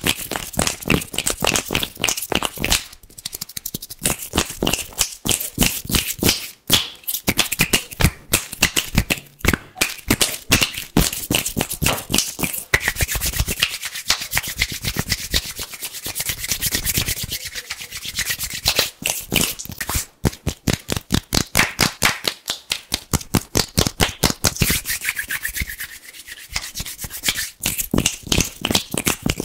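Fast, rapid rubbing of hands close to the microphone, a dense run of crisp, hissy strokes several times a second.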